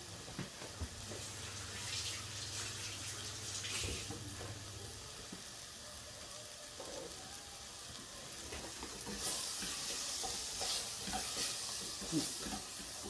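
Onions, tomato puree and spices sizzling in a frying pan as a curry sauce base, a steady frying hiss with scattered small clicks of stirring. A low hum sounds for a few seconds near the start, and the hiss grows brighter about two thirds of the way through.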